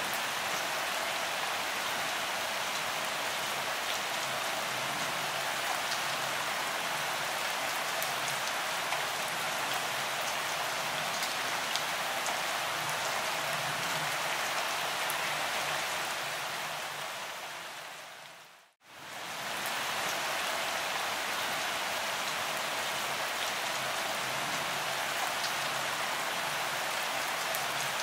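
Steady rain falling, an even hiss with faint scattered drop ticks. It fades out to silence about two-thirds of the way through, then quickly comes back.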